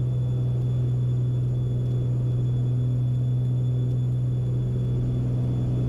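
Steady low drone of a Beechcraft Baron B55's twin piston engines and propellers, heard inside the cabin during a climb.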